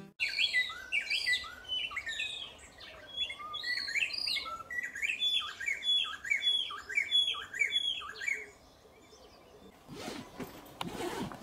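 Birds singing: a long run of short, falling chirps repeated about two a second, which stops about eight seconds in. Near the end a brief burst of noise follows.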